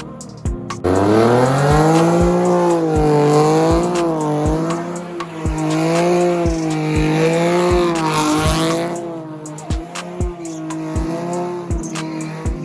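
Car engine held at high revs during a burnout, its pitch wavering up and down, over the hiss of tyre squeal. It comes in about a second in and eases off near the end.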